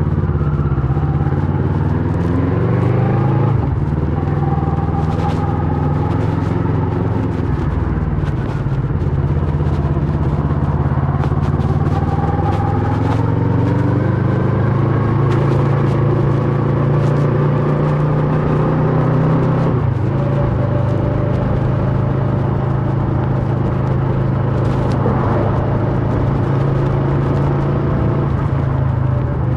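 2008 Kawasaki Versys 650's two-cylinder engine through a MIVV slip-on exhaust, under way and accelerating through the gears. The engine note climbs, drops at a gear change a few seconds in, climbs slowly again, drops at another shift about two-thirds of the way through, then holds steady.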